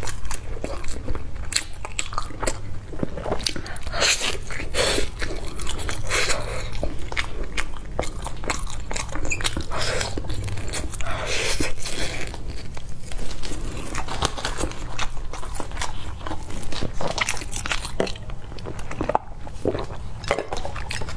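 Close-miked biting and chewing of a zongzi, sticky rice wrapped in bamboo leaves, full of small wet clicks and smacks, with the crinkle of the leaf wrapper being peeled and handled.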